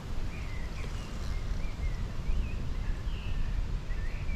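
A small songbird singing short warbled phrases, one after another, over a steady low rumble.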